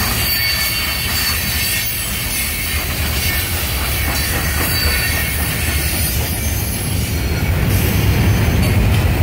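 CSX coal train's hopper cars rolling past: a steady rumble of steel wheels on the rails with a thin, high wheel squeal over it, growing a little louder near the end.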